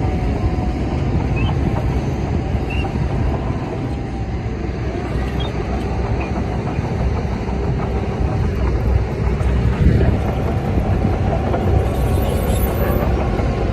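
Crawler bulldozer at work, its diesel engine running under load with a steady low rumble that holds throughout.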